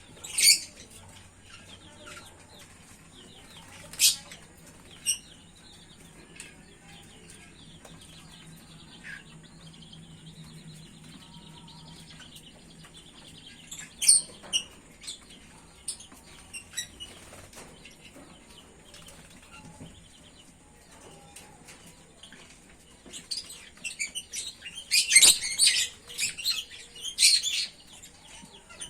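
Small aviary birds chirping in short, sharp calls, scattered at first and then a busy run of chirping near the end, over a faint steady hum.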